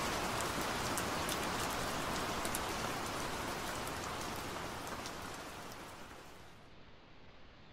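Rain falling steadily, with separate drops ticking through it, fading away about six seconds in.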